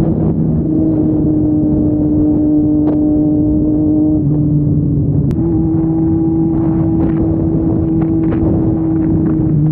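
Triumph Street Triple 675's inline-three engine with a Yoshimura exhaust running at a steady cruise. The pitch holds nearly level, with a brief dip a little past the middle.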